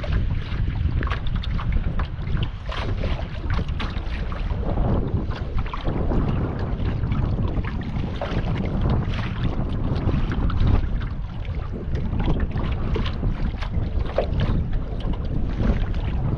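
Wind buffeting the microphone in a steady low rumble, over water splashing and slapping around a kayak moving on a river.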